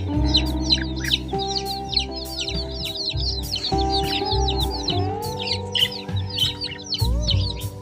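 A crowd of chicks peeping rapidly and continuously, short high downward-sliding cheeps overlapping one another, over background music with a steady bass.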